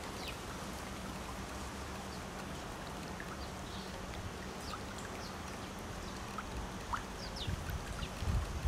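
Outdoor ambience: a steady rushing hiss with faint, scattered short chirps, and wind buffeting the microphone near the end.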